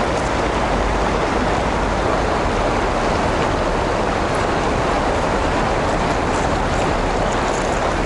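Steady rush of river water pouring through and below a lock and dam, an even noise that stays at one level throughout.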